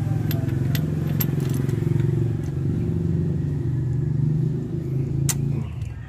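A motor running steadily, cutting off about a second before the end, with a few sharp metallic clinks of tools over it.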